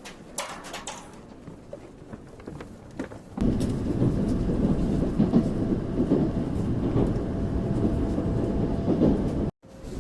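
Shinkansen train running: a loud, steady, low rumble that starts abruptly about three and a half seconds in and cuts off suddenly just before the end. Before it there is only a quieter background with a few clicks.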